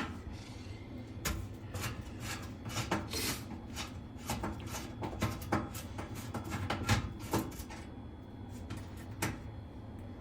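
Phillips screwdriver backing out screws from a panel inside an oven: an irregular run of short clicks and scrapes that thins out after about seven seconds, with one more click near the end.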